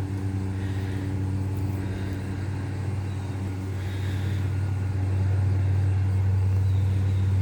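Lawn mower engine running steadily as a low, even hum, growing a little louder about five seconds in.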